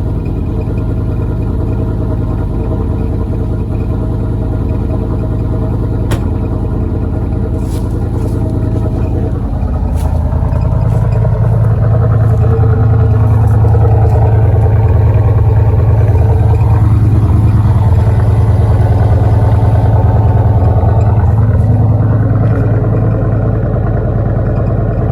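1992 Cadillac Eldorado's 4.9 L V8 running with no exhaust system, loud and unmuffled. It picks up and gets louder about ten seconds in, with the pitch sweeping up and down a couple of times in the second half.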